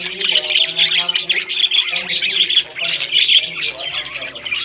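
Parrots squawking and chattering continuously: a dense run of rapid, shrill calls.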